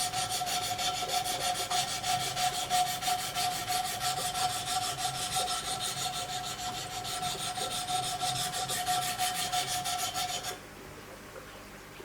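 Diamond stones of a Wicked Edge guided sharpener rubbed in quick strokes along the blade of a Giant Mouse K-GMF2 knife: a steady scraping rasp with a ringing tone under it, stopping about ten and a half seconds in.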